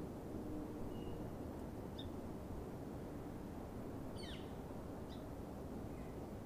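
Small birds giving a few brief, scattered chirps, with a quick falling series of notes about four seconds in, over a faint steady low outdoor background.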